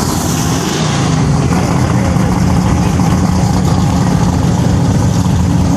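An older car's engine running at a steady speed.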